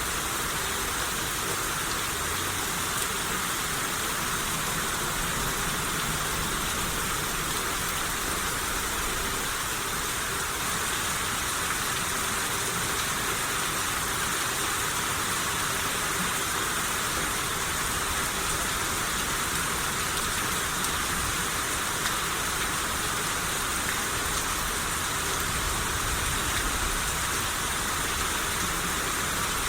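Steady rain shower falling, an even hiss of rain without letup.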